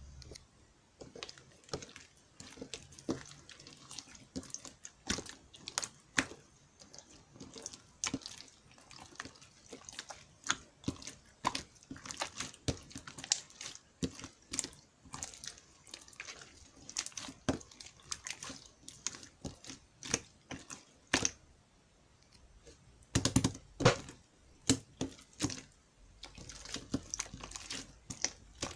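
Irregular small clicks and taps, several a second, with a louder cluster of them shortly before the end.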